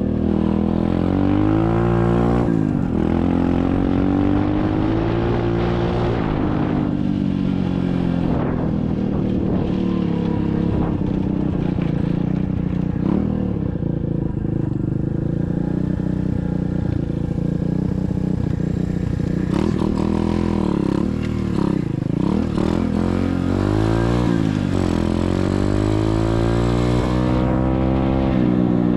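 SSR 125cc dirt bike's single-cylinder four-stroke engine running under way, its pitch rising and falling again and again with the throttle.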